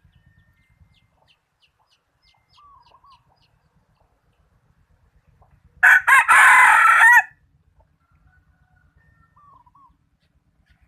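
A decoy junglefowl rooster crows once, loud and short, about six seconds in. Fainter short bird calls come before and after it.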